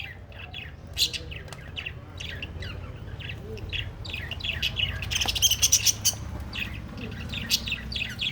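Aviary flock of budgerigars and lovebirds chirping and chattering: many short, quick, high calls, densest about five to six seconds in. A steady low hum runs underneath.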